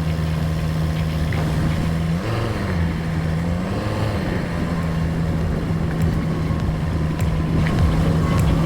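SUV engine running steadily on an off-road trail, its note dipping and swinging back up about two to four seconds in as engine speed changes. A few sharp knocks sound near the end.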